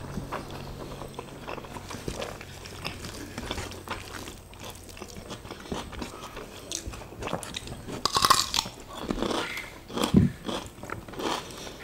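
Close-miked eating sounds: two people chewing rice and side dishes, with many small wet mouth clicks and a couple of louder crisp crunches in the second half, such as bites of fresh cucumber.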